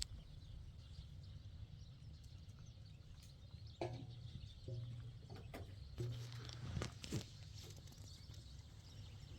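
Faint bleating of herded livestock, a few short calls in the middle, over a low steady rumble.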